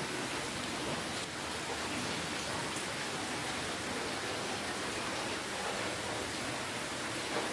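Steady rainfall: a dense, even hiss of rain with faint scattered drops.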